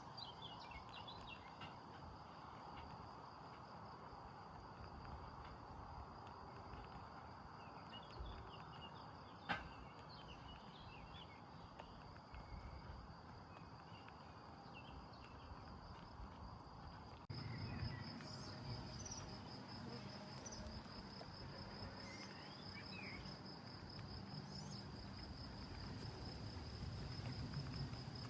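Faint summer outdoor ambience: insects trill in a steady, finely pulsing high band, with scattered small bird chirps. There is a single sharp click about nine seconds in. About seventeen seconds in, the ambience changes abruptly and gets louder, with a stronger trill and more low rumble.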